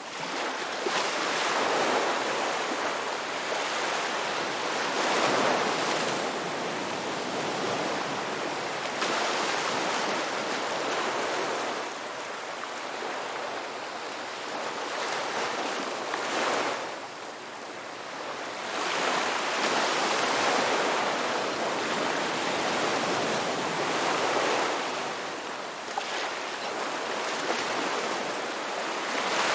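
Ocean waves breaking and washing up the shore, the surf swelling and easing back in surges every four to five seconds.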